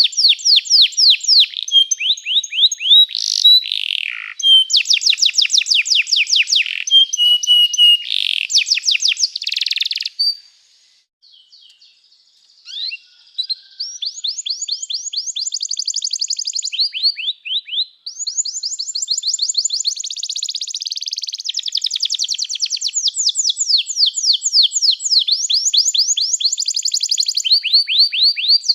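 Domestic canary singing long, rapid trills of repeated notes, with a brief pause of about three seconds near the middle, then a long unbroken run of song that stops abruptly.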